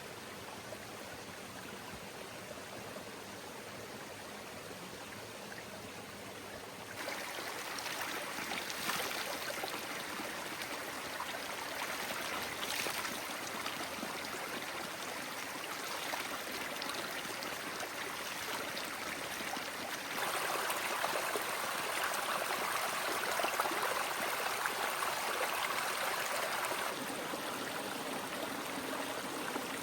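Heavy rain falling and running off in a steady rush of water, stepping louder about seven seconds in and again about twenty seconds in.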